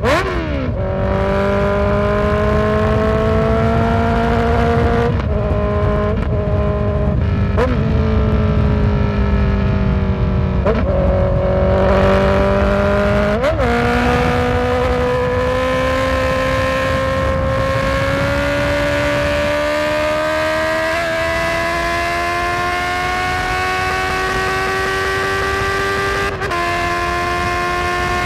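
Honda CB650F's inline-four engine under way, its pitch rising and falling with speed and broken by several brief gear changes.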